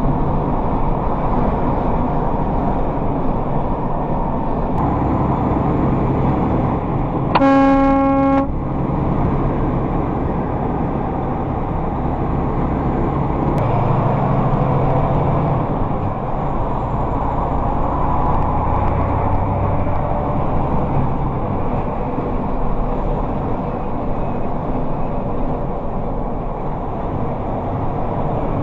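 Steady road and engine noise of a vehicle driving, with a single horn blast lasting about a second roughly a quarter of the way in.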